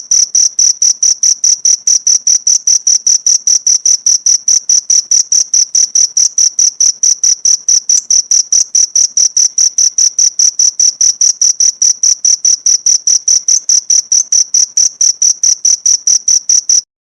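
Cricket chirping steadily and loudly in a fast, even train of short high chirps, about five a second. It cuts off suddenly near the end.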